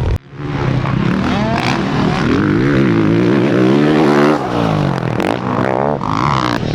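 Honda CRF450RX dirt bike's 450 cc single-cylinder four-stroke engine under riding load, revving up and falling back repeatedly as it is throttled and shifted around the track. The sound cuts out for a moment just after the start.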